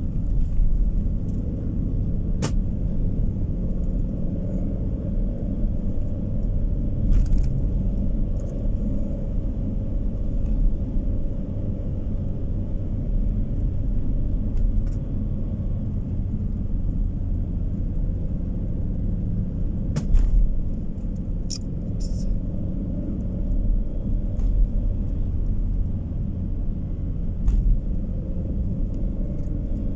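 Steady low rumble of road and engine noise heard from inside a moving car, with a few short knocks or clicks scattered through it; the loudest comes about two-thirds of the way in.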